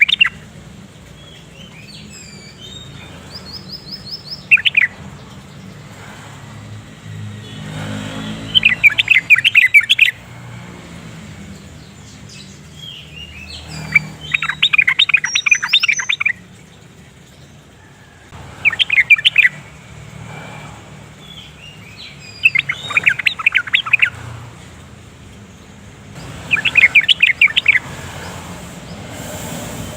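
Yellow-vented bulbul singing: short, loud phrases of rapid bubbly chattering notes, about six in all, one every four to five seconds, with faint chirps between them over a low steady hum.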